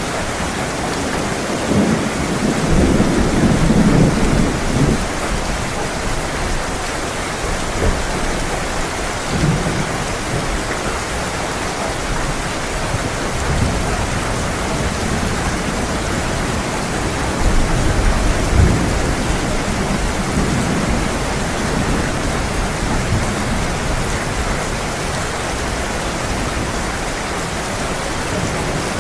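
Heavy rain falling steadily, with low rolls of thunder rumbling about two seconds in and again a little past the middle.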